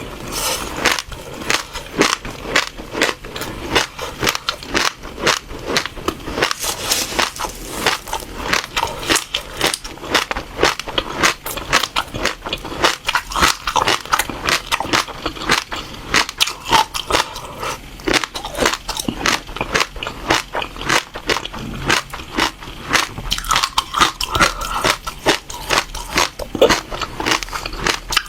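Close-up mouth sounds of seeds being bitten and chewed: a rapid, continuous run of crisp crunches and crackles as the seeds crack between the teeth.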